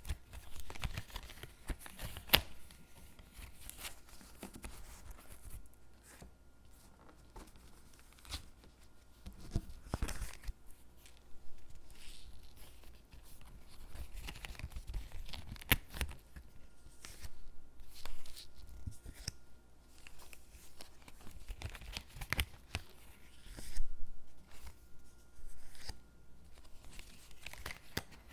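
Stickers being peeled off their backing sheet and pressed onto paper cutouts: irregular peeling and paper-rustling strokes with a few sharp taps.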